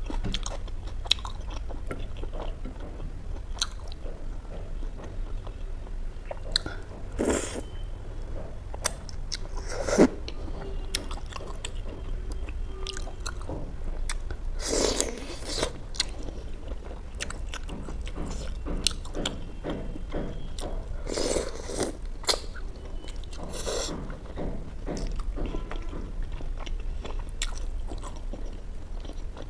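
Close-up chewing and biting as saucy butter chicken pieces are eaten by hand: wet, sticky mouth sounds and small clicks, with a few louder bites scattered through, over a low steady hum.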